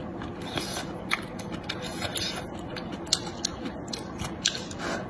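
Close-up chewing of soft noodles, with many short wet smacking clicks from the mouth; near the end noodles are drawn into the mouth.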